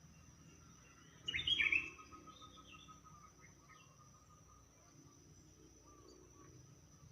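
Songbird calling: one loud, short burst of quick sliding chirps about a second in, followed by fainter scattered chirps, over a steady faint high-pitched whine.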